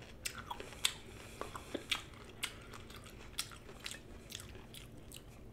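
A person chewing raw cauliflower with ranch dressing: irregular crisp crunches, a few a second.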